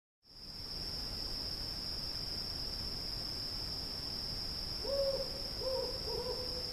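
Night ambience sound effect: a steady high cricket trill over a soft hiss, with an owl hooting three times near the end.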